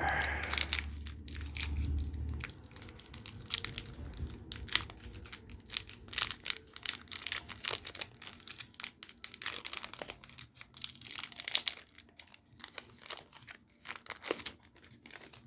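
Foil Magic: The Gathering booster pack wrapper being torn open and crinkled, an irregular run of sharp crackles.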